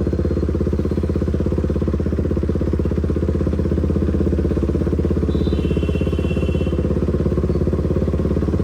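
Motorcycle engine running steadily at a cruise, its exhaust note an even, fast pulse.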